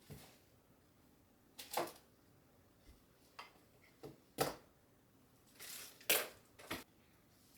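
Irregular light clicks and knocks of small objects being handled at close range, about half a dozen, with the sharpest about two, four and a half and six seconds in.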